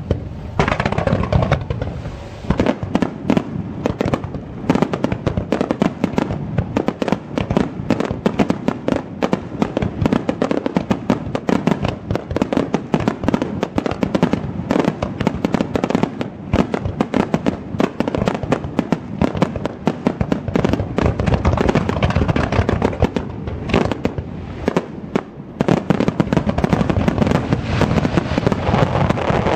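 Fireworks display: a barrage of aerial shells and ground-fired comets going off in rapid succession, a dense, unbroken run of booms and crackles.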